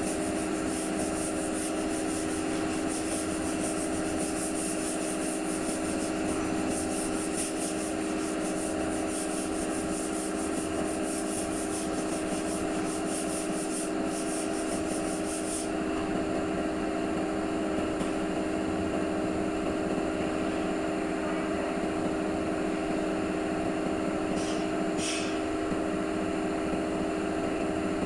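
A steady machine hum with a rapid, high rasping over it that stops a little past halfway through. Two short high squeaks come near the end.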